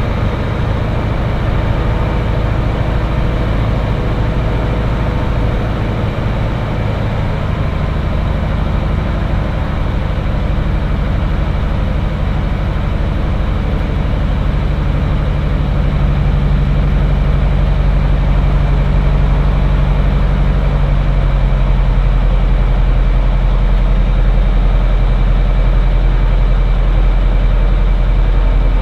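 Cirrus SR20's four-cylinder Lycoming IO-390 engine and propeller running steadily at low power, heard from the cockpit. About halfway through the drone grows a little louder as the engine speed changes.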